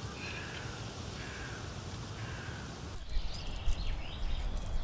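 Crows cawing in a steady series of repeated calls. About three seconds in, the sound changes abruptly to a low rumble with a thin steady high tone and a few short chirps.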